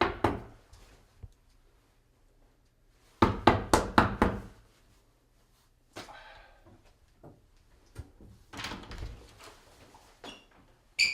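Knocks and thuds in a small room: a quick run of about six knocks a few seconds in, then a single thump around six seconds.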